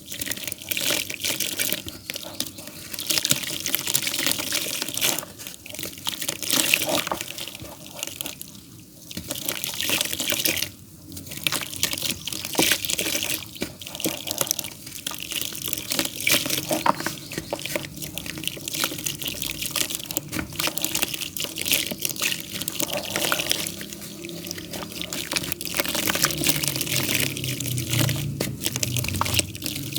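Damp clay dirt being crumbled: a dense, continuous run of wet crackles and crumbles, with brief lulls.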